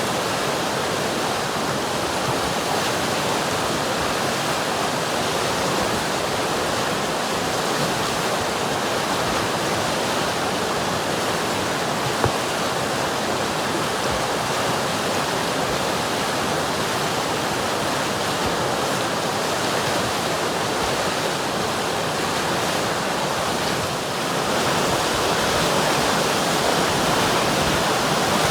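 River water flowing steadily, getting a little louder from about twenty-four seconds in.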